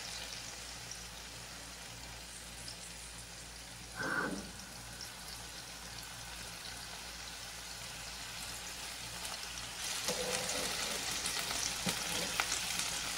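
Skewered mutton liver shallow-frying in a little oil in a frying pan over a low flame: a steady soft sizzle. There is one brief louder sound about four seconds in. About ten seconds in, the sizzle grows louder with a few sharp crackles as the skewers are turned onto their uncooked side.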